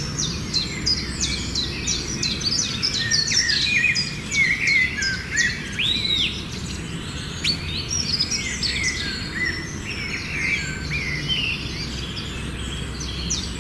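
Several birds singing and calling at once: a dense chorus of quick high chirps and short whistles, over a steady low background noise.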